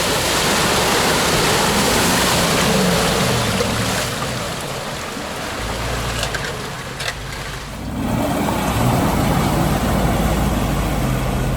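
Off-road vehicle's engine revving under load, with a loud rushing noise of tyres churning through mud. The noise eases off for a few seconds in the middle and then builds again, with the engine note rising and falling.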